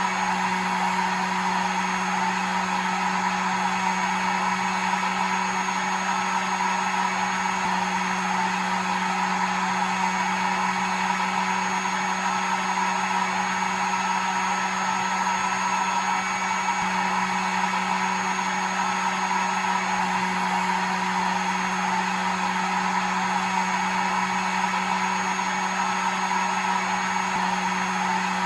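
Hair dryer running continuously, a steady whooshing blow with a constant motor hum.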